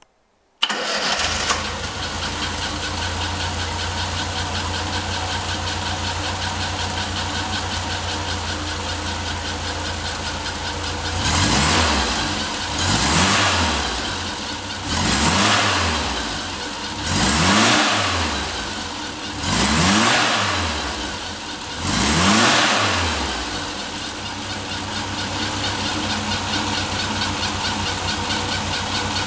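A 1972 SEAT 600 E's rear-mounted 767 cc four-cylinder engine with a Weber carburettor, idling steadily. Midway it is revved six times in quick throttle blips about two seconds apart, each rising and falling in pitch, then it settles back to idle.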